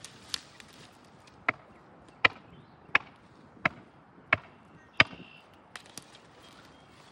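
A large hammer striking repeatedly: seven sharp blows at a steady pace, about two-thirds of a second apart, each with a short ring. Two lighter taps follow near the end.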